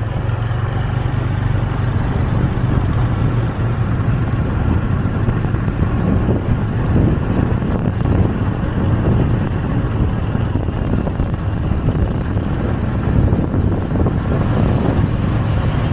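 Motorcycle taxi riding through city traffic, heard from the pillion: the bike's engine running steadily under a dense rush of road and wind noise.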